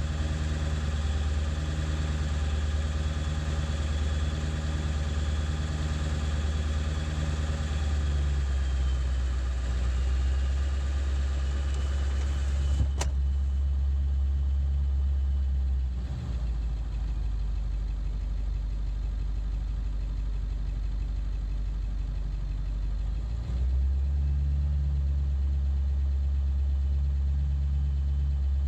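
Ford 7.3 L Power Stroke V8 turbodiesel idling roughly, with an uneven pulsing beat about once a second. It is still running poorly after the injection control pressure (ICP) sensor was replaced. Partway through the sound turns duller for a while, then comes back, and there is a single sharp click.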